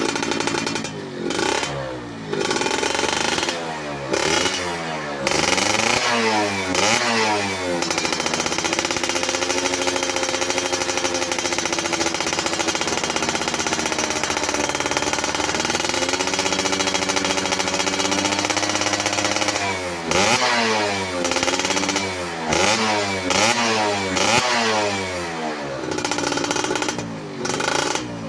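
Yamaha F1ZR two-stroke single-cylinder engine running through an ERS racing muffler. It is revved in quick repeated blips, then held at high revs for about twelve seconds with a brief dip, then blipped again several times near the end.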